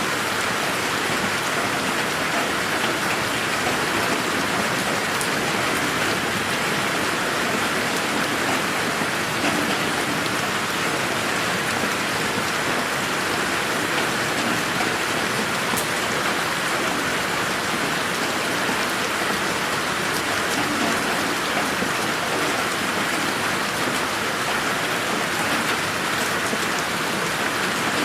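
Steady rain falling on a garden, an even, unbroken patter, with the audio processed with an 8D panning effect meant for headphones.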